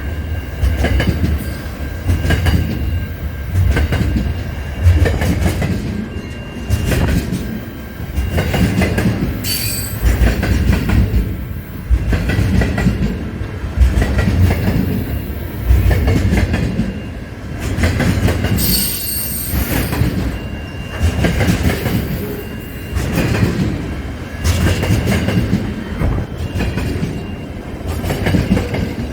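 Train rolling past, with steady rumble and repeated clacks of the wheels over the rail joints. Short high squeals of wheel on rail come twice, about a third of the way in and again past halfway.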